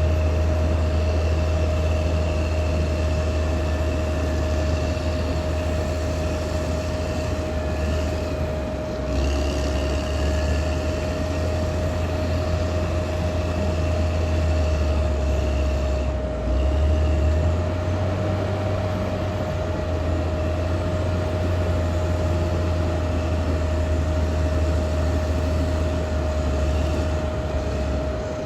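Caterpillar D6R XL bulldozer's diesel engine running steadily with a deep, low drone and a constant whine over it. The engine note shifts briefly about a third of the way in and again just past halfway.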